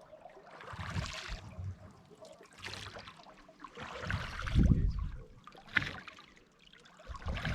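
Water splashing and trickling against a small wooden rowboat, in a few irregular surges, with some low knocks and rumbles under them.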